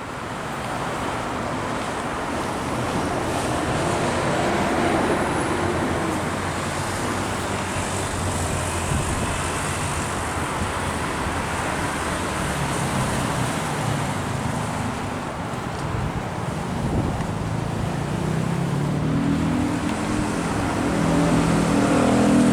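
Road traffic passing close by, a steady wash of engine and tyre noise. In the last few seconds a large engine's low hum grows louder as a heavy vehicle draws near.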